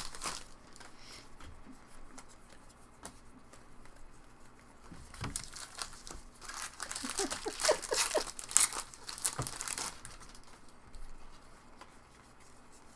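Trading-card pack wrappers crinkling and tearing as packs are opened and cards handled, in irregular bursts that are busiest in the middle.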